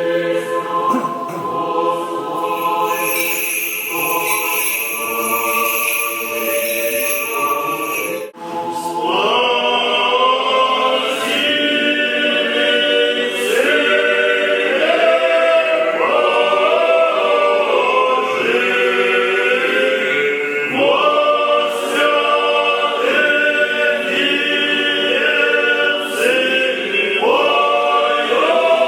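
A church choir singing unaccompanied Orthodox liturgical chant, several voices sustaining chords that move step by step. About 8 seconds in there is a sudden break, after which the singing is fuller and louder.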